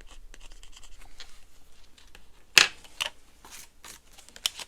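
Paper being handled close to the microphone: a run of dry rustles and crisp snaps as cash and paper challenge sheets are moved, with the sharpest crackle a little past halfway.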